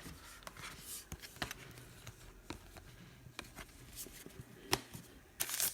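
Faint handling of trading cards and packs: scattered light clicks and rustles, with a louder rustle near the end.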